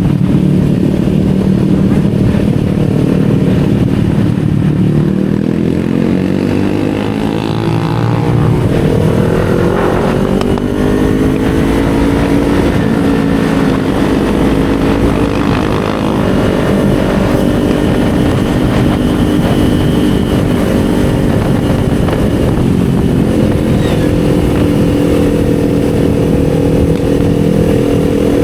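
Kawasaki Z400 399 cc parallel-twin engine running on the road. Its pitch sinks over the first few seconds, climbs as the bike accelerates, then holds fairly steady, over a low rush of wind and road noise.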